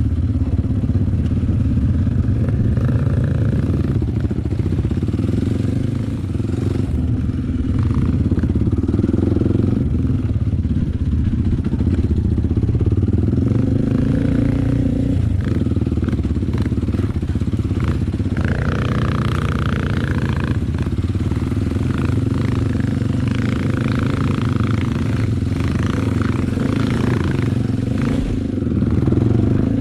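Trail motorcycle engine running continuously while being ridden, a steady low engine sound with small shifts in pitch.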